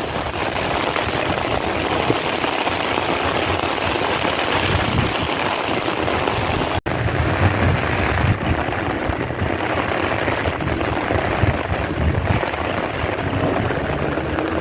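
Heavy monsoon downpour: rain pouring steadily, a dense even hiss, with a momentary cutout in the sound about halfway through.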